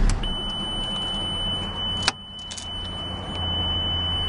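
The Lamborghini Gallardo LP570-4 Superleggera's V10 engine shuts off right at the start. A steady high-pitched warning tone from the car follows and runs on, with a sharp click about two seconds in.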